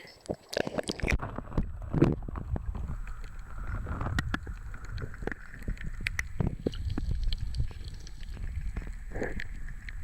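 Seawater sloshing and splashing close to the microphone, with a steady low rumble and many small clicks and gurgles as the swimmer moves about in the shallows.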